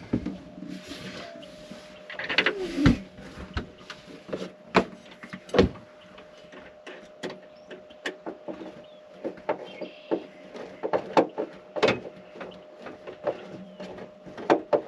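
Irregular clicks and clinks of hand tools and small metal hardware being handled while bolting cables to a bus bar, over a faint steady hum.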